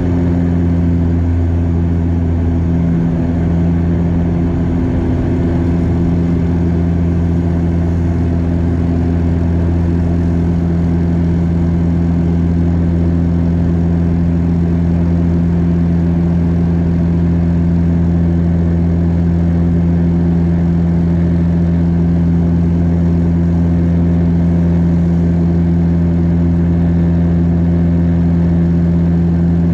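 Cabin noise of a Bombardier DHC-8 Q400's turboprop engines and propellers: a steady low drone with several held hum tones that do not change.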